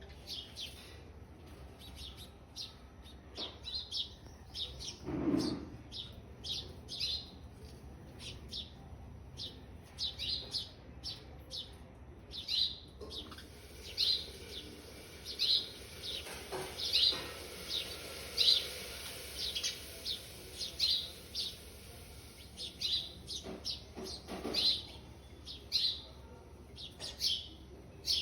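Baby birds chirping: a run of short, high chirps repeated about once or twice a second, typical of nestlings begging to be fed.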